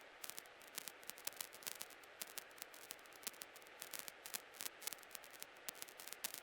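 Faint crackling static on a helicopter's cockpit radio and intercom feed: a light hiss with irregular short clicks, several a second, and no voice on the channel.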